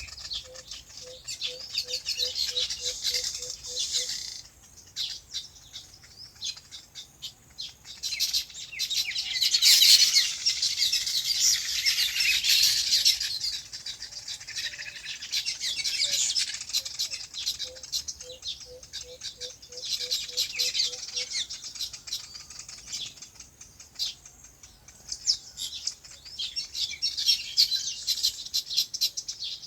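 Many small birds chirping at once in a dense, overlapping chorus that swells to its loudest in the middle. Twice, a low note repeats evenly about three times a second for a few seconds.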